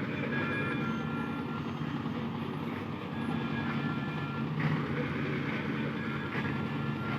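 A heavy diesel engine running steadily at low speed, a deep even drone.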